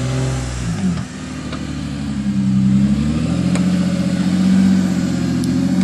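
Engine of a Geo Tracker off-road crawler running under load. It dips in pitch about a second in, then revs up and holds a steady higher pitch.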